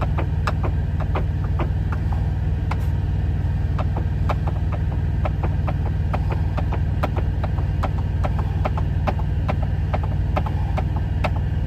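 Steady low drone of an idling semi-truck engine, with irregular light clicks and taps over it, a few each second.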